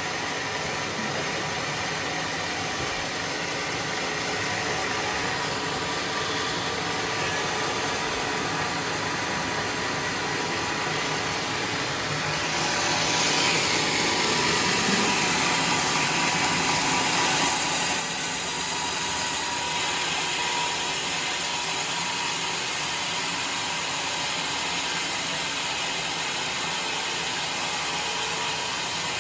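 Sawmill machine running steadily with a hissing, engine-like noise, getting louder and brighter for several seconds about midway.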